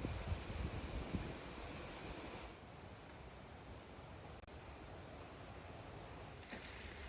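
A chorus of insects making a steady high-pitched drone, louder for the first two and a half seconds, then fainter and fading out near the end.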